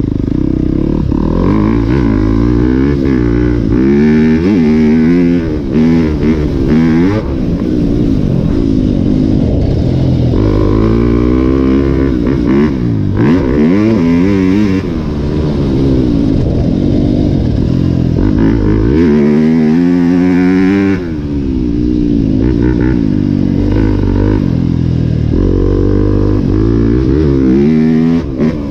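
Four-stroke Yamaha YZ250F dirt bike engine ridden hard around a motocross track, its pitch climbing and falling again and again as the throttle is worked and gears are shifted, with a brief drop when the throttle is shut off about three quarters of the way through.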